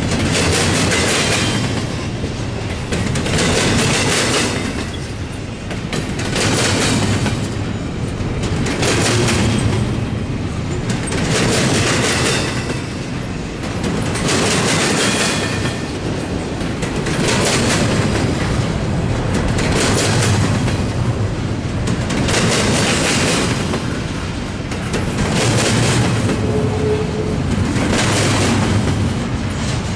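CSX freight train's cars rolling past, the wheels clattering over the rails. The clatter swells and eases about every three seconds, car after car.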